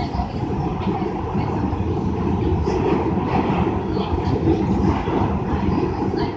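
Steady rumble of a moving New York City subway train heard from inside the car, with faint scattered clicks.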